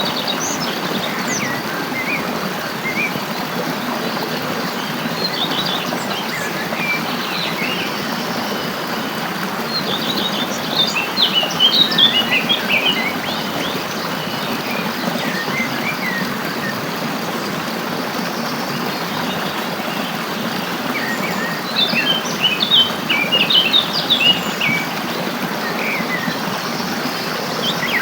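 Small songbirds chirping and twittering in quick bursts over the steady rush of flowing stream water; the chirping is busiest twice, about a third of the way in and again near the end.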